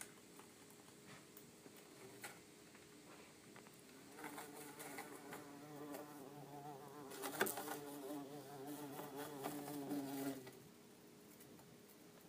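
Bumble bee buzzing: a wavering buzz starts about four seconds in, swells with a sharp tap around seven seconds, then cuts off abruptly about ten and a half seconds in.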